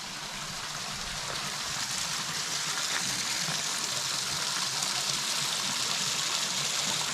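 River water running steadily into a natural swimming pool with a continuous splashing rush, growing louder over the first couple of seconds.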